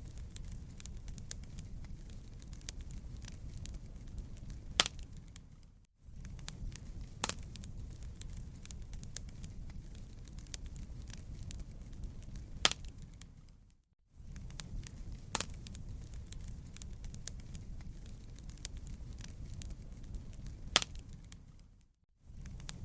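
Wood fire in a fireplace crackling, with a steady low rumble and scattered sharp pops. The sound briefly fades out and restarts about every eight seconds.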